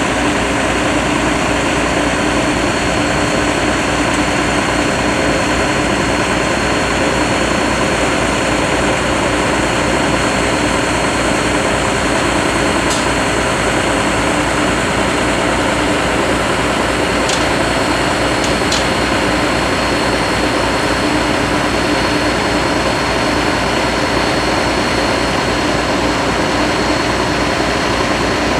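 Bucket truck's engine running steadily at an even speed, a constant mechanical drone, with three faint clicks about halfway through.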